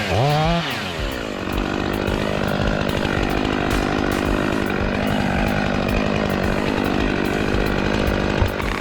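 Stihl MS500i fuel-injected chainsaw revved up and down a few times, then running steadily at high speed with slow rises and falls in pitch.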